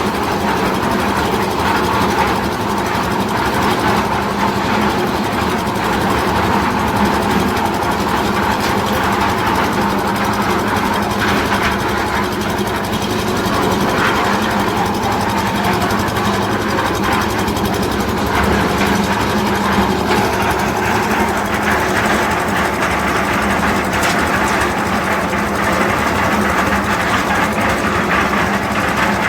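Machinery running steadily, with a constant low hum under a dense mechanical rattle.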